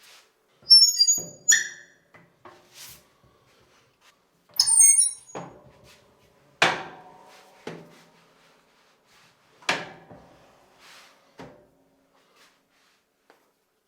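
Handling noises at a bakery work table: a series of sharp knocks and clatters, the first two with brief high-pitched squeaks.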